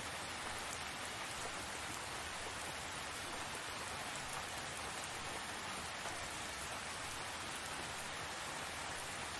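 Steady rain falling and pattering on surfaces, an even hiss with faint drop ticks.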